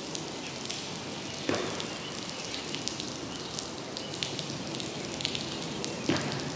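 Steady rain falling, with individual drops ticking on hard surfaces, and two louder dull thumps, about a second and a half in and near the end.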